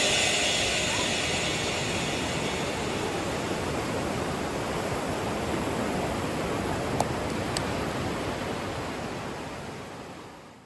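Steady rushing water with no tones in it, fading out over the last couple of seconds. Two faint clicks come about seven seconds in.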